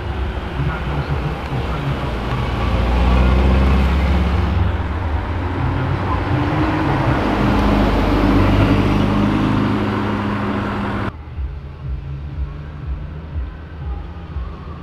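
Car engines running and accelerating as cars drive away, loudest about three seconds in and again around eight seconds in. About eleven seconds in the sound drops suddenly to a quieter engine note.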